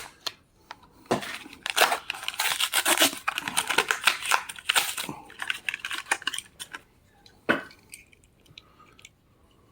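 Matchbox die-cast car packaging being torn and pulled open by hand: irregular tearing, crinkling and rustling of card and plastic, with one sharper snap near the end.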